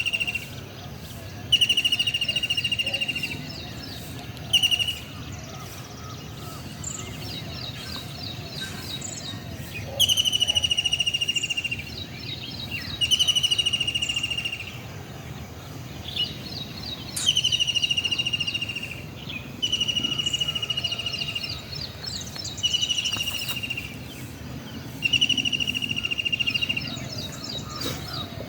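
Birds calling: a high buzzy call lasting one to two seconds, repeated every few seconds, with shorter rapid trills in between, over a steady low background rumble.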